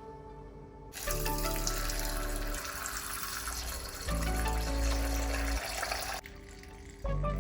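Water running from a tap into a sink, starting about a second in and shutting off abruptly about five seconds later, over background music with steady bass notes.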